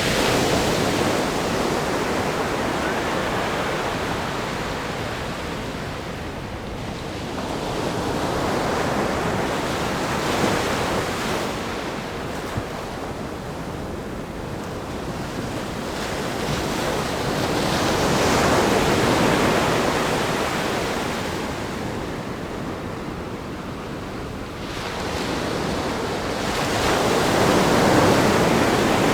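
Ocean surf breaking and washing against a rock groin on a sandy beach. The wash swells and fades in four surges, several seconds apart.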